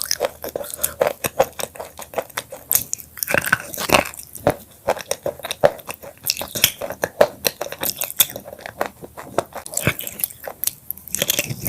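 Close-miked crunching of broken black chips: a dense, irregular run of sharp crackles and snaps.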